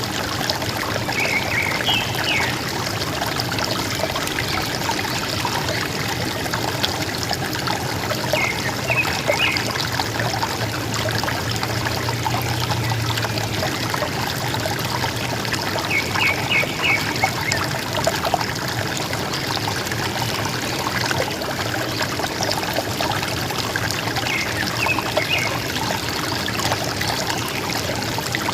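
River water trickling and gurgling steadily, with a bird giving a short burst of high chirps about every seven or eight seconds.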